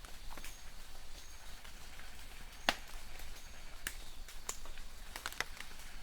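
Light rain in a forest: a soft steady hiss with large drops falling irregularly and ticking sharply on leaves, one loud drop about two and a half seconds in and a quick run of drops near the end.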